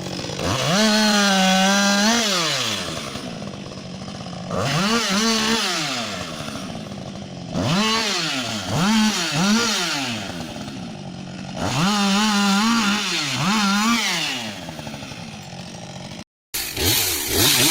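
Two-stroke chainsaw revved to full throttle four times, some bursts with quick throttle blips, dropping back to idle between them. Near the end the sound cuts out for a moment and another chainsaw is heard.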